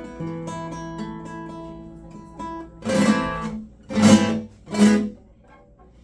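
Acoustic guitar: single picked notes for about two and a half seconds, then three loud strummed chords about a second apart, ringing out.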